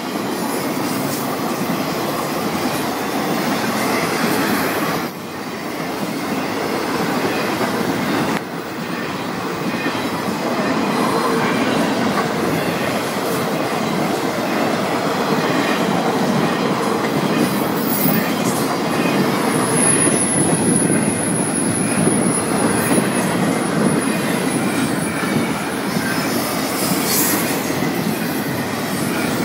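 Freight cars of a long Florida East Coast Railway train rolling past, a steady rumble and clatter of steel wheels on rail with two brief lulls early in. About two-thirds of the way through, a thin high-pitched wheel squeal rings for about five seconds.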